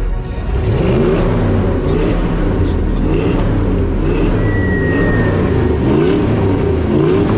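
Truck engine revving over and over, its pitch climbing and dropping several times over a steady low rumble.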